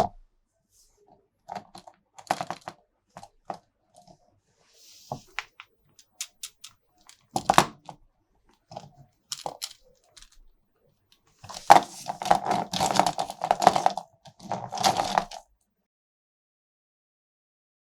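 Hard plastic toy parts and packaging being handled: scattered clicks, taps and crinkles, with a denser stretch of rattling and rustling about twelve seconds in that lasts some four seconds.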